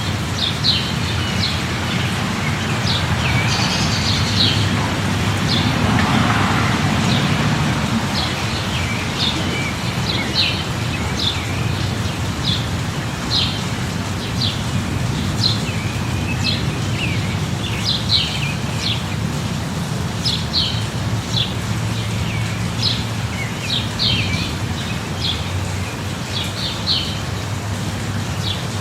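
Steady light rain falling, with a bird chirping over it in short high notes, about one or two a second, and a low steady rumble underneath.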